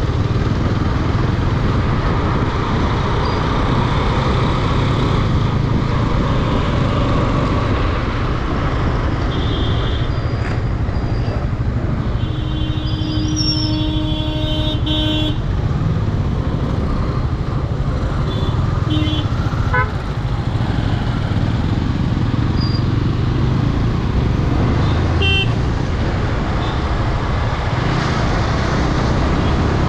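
Steady engine and wind noise of a motorcycle riding through city traffic. Vehicle horns honk several times, the longest a held blast about 12 to 15 seconds in.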